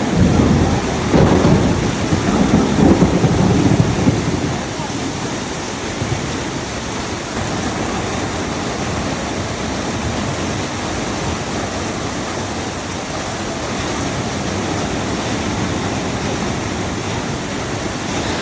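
Heavy monsoon downpour during a thunderstorm: a loud, uneven rumble of thunder for the first four seconds or so, then the steady hiss of heavy rain.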